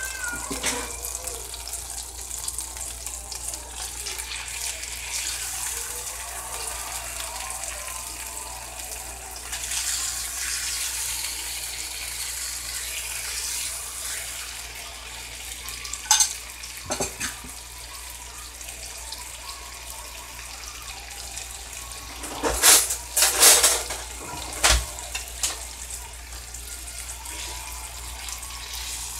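Chicken, potatoes and asparagus sizzling in a cast-iron skillet, a steady hiss that swells for a few seconds in the middle. A utensil clinks and scrapes against the pan a few times past the middle, with a cluster of clatters later on.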